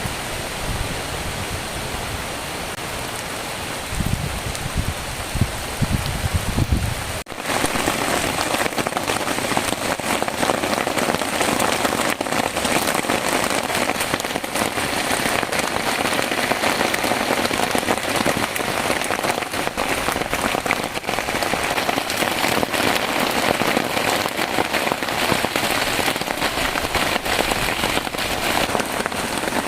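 Heavy rain falling steadily with a dense hiss. For the first seven seconds, gusts of wind buffet the microphone with low rumbles. About seven seconds in, the sound changes abruptly to steady, heavier rain without the rumble.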